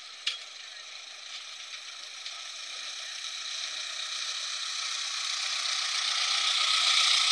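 Ford Model T's four-cylinder engine and rattling mechanicals as the car drives up close, growing steadily louder until near the end. A single sharp click comes just after the start.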